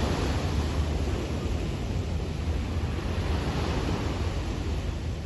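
Small sea waves washing onto a beach, the hiss of the water swelling and easing, with wind buffeting the microphone as a steady low rumble.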